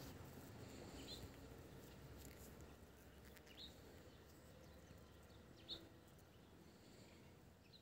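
Near silence with a bird chirping faintly, short high calls about every two seconds, four in all.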